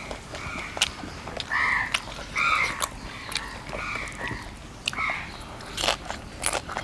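A person eating by hand, chewing and crunching food, with many short sharp clicks and crackles. A few short animal calls stand out, loudest about one and a half to two and a half seconds in.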